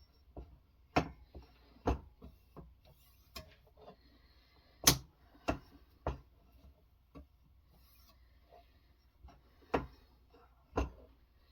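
Scattered sharp clicks and knocks, about ten of them at irregular intervals, the loudest near the middle: hard parts of a guided knife-sharpening system and its stones being handled between sharpening strokes.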